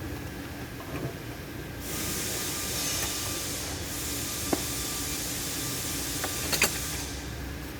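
A steady pressurized hiss from a nozzle, starting about two seconds in and lasting about five seconds, with a brief drop near the middle. A few light sharp clicks, two of them close together near the end.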